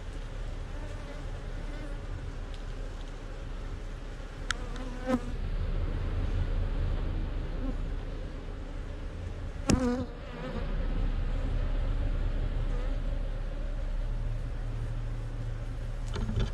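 Honeybees buzzing steadily around a colony's hive box, with a few brief sharp louder sounds about four to five seconds in and again near ten seconds.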